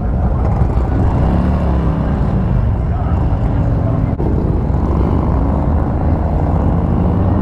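Harley-Davidson motorcycle engines running on the move in a group ride, a heavy low rumble whose pitch rises and falls with the throttle. A single sharp click about four seconds in.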